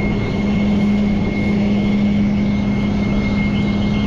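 Rollback tow truck running steadily while its bed and winch are worked: a constant low hum with a faint high whine over engine rumble.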